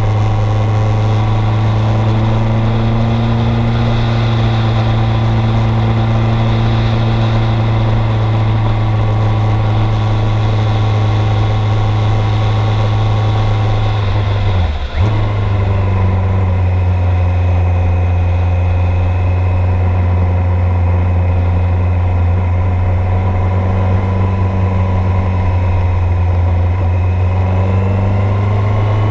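1986 Kawasaki GPZ900R's inline-four engine heard from on board at steady cruising revs. About halfway through, the throttle closes for a moment, as in a gear change, and the engine settles at slightly lower revs, then climbs again near the end.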